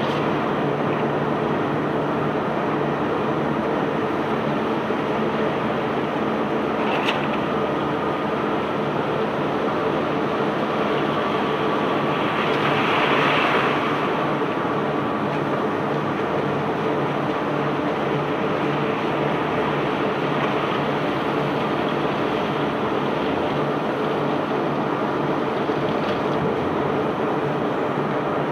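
Steady running of a self-unloading barge's unloading machinery: an engine hum under a continuous rumble, with a brief louder swell about halfway through.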